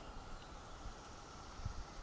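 Faint outdoor ambience: low rumbling wind noise on the microphone, with a soft thump near the end.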